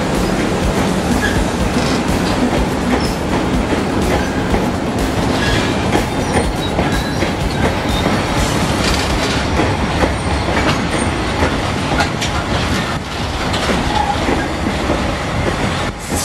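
Narrow-gauge passenger train rolling slowly past along a platform: a steady rumble of coach wheels on the rails, with clickety-clack over the rail joints and occasional brief wheel squeals.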